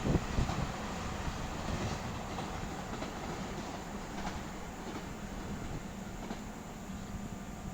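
Taiwan Railway EMU3000 electric multiple unit pulling out of the station: wheels and running gear rumbling over the track, with a couple of heavy knocks at the start and a few wheel clicks over rail joints. The sound slowly fades as the train draws away.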